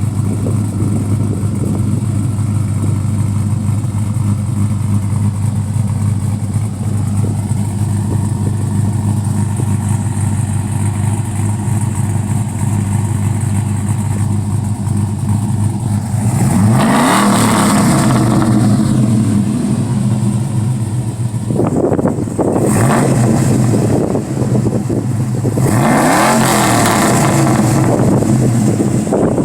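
2004 Chevy Tahoe's cammed 5.3-litre V8 running through a 3.5-inch exhaust with a Flowmaster Hushpower Pro muffler, idling steadily and then revved: one long rev a little past halfway, a couple of quick blips a few seconds later, and another rev near the end.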